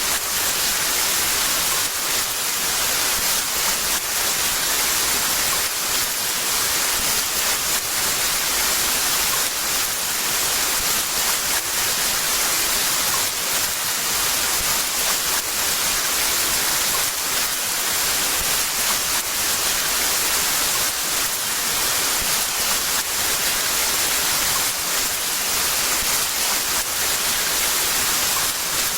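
Heavy rain falling, a dense steady hiss without thunder or distinct drops.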